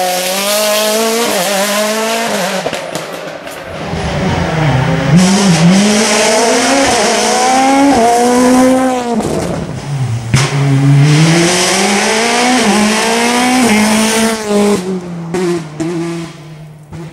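Rally car at full attack on a special stage, its engine note climbing through the gears and dropping sharply on the downshifts for corners. It grows louder a few seconds in and fades away near the end.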